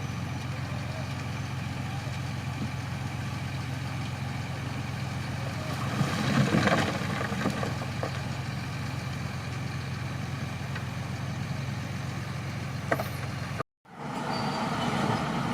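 Crawler bulldozer's diesel engine running steadily, swelling louder for a second or so about six seconds in. Near the end the sound cuts off abruptly and picks up again with a different machine noise.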